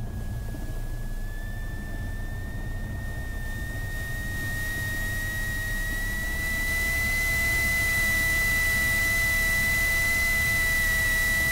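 Cessna 172SP's four-cylinder Lycoming engine and propeller running at taxi power, a steady drone with a thin whine that rises slightly in pitch and grows louder about six seconds in as power is added.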